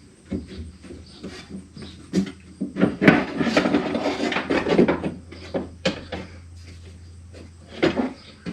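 Irregular clunks, clicks and scraping of a power window regulator assembly being handled and shifted inside a pickup's door shell, busiest in the middle, over a faint steady low hum.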